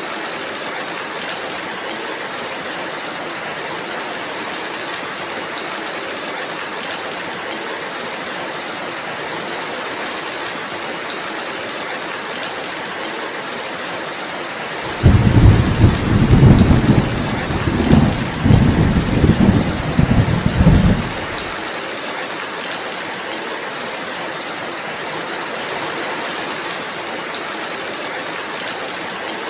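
Steady rainfall throughout. About halfway through, thunder breaks in suddenly and rumbles with a crackling, uneven roll for about six seconds, louder than the rain, before it dies away.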